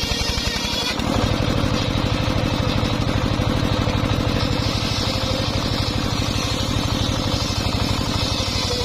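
Engine of a homemade circular saw rig running steadily with a rapid, even pulsing beat; it gets a little louder about a second in.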